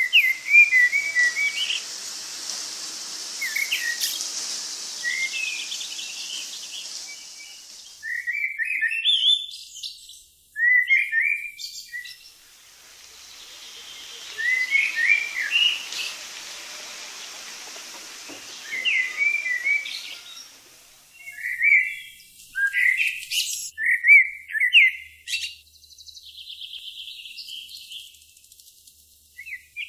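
Songbirds chirping in quick bursts of short phrases. A high hiss swells and fades twice underneath.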